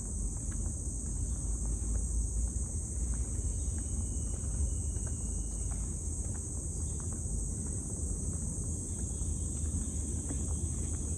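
Steady, high-pitched chorus of insects, with a low rumble of wind on the microphone underneath.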